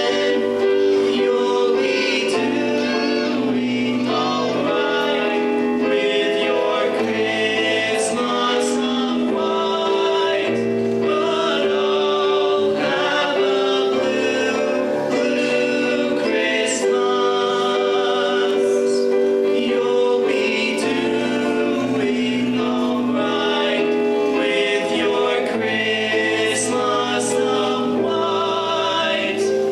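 High school choir singing, holding long notes.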